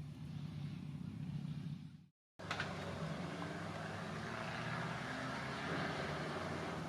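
Steady low mechanical hum, like a distant engine or road traffic, with background hiss. It cuts out completely for a moment about two seconds in, then resumes with more hiss.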